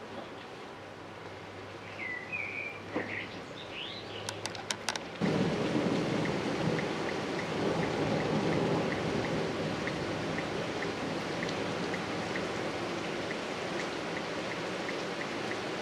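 Rain falling in a thunderstorm, with a few short bird chirps in the first seconds. About five seconds in, the sound jumps suddenly to a loud, steady downpour with a faint regular ticking.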